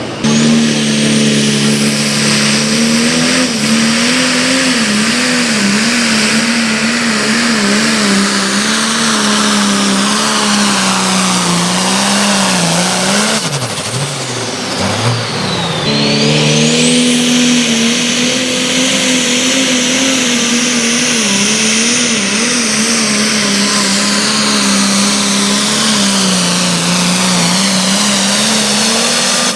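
Engine of a pulling vehicle running flat out under load while dragging the sled, its pitch holding high and wavering, with a high whistle gliding up and down over it. The engine drops away briefly about halfway through, then comes back to full pull.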